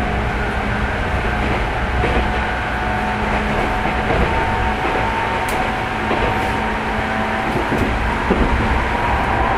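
Running sound inside a Tokyu 9000 series electric train car at speed: a steady rumble of wheels on rail, with a few constant whining tones from the drive running through it.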